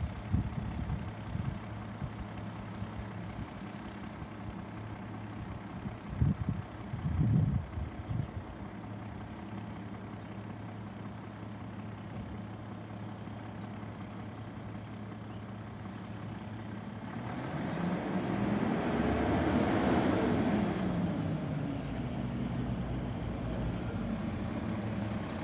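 Garbage truck's diesel engine idling steadily, with a few loud knocks about six to eight seconds in. Past the middle the engine revs up and then back down over about five seconds.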